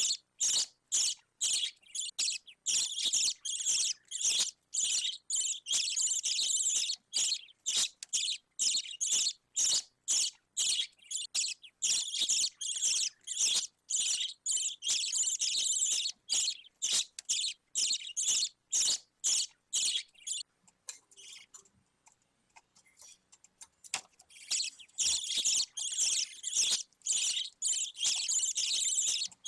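Budgerigar chick giving a rapid, continuous run of high, scratchy chirps. The calls break off for about three seconds around two-thirds of the way through, then start again.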